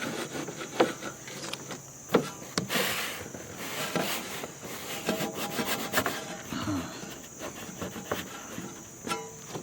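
Hands rubbing and pressing sealing tape down around a roof vent: irregular scraping and rubbing with a few sharp knocks.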